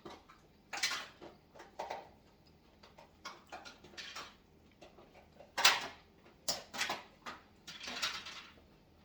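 Eating at a table: irregular short bites and chewing of corn, with light clinks of dishes and cutlery. The loudest sound comes a little past halfway.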